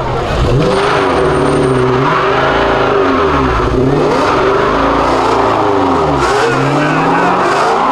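Car engine revving up and down again and again, its pitch climbing and dropping in repeated swells.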